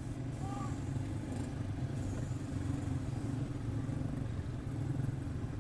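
Several quarter midget race cars' single-cylinder Briggs & Stratton Animal engines running together on the track as a steady, overlapping drone.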